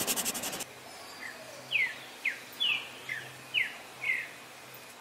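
Pencil scratching on paper for a moment, then a small bird chirping: about six short, quick chirps, each falling in pitch, spread over about three seconds.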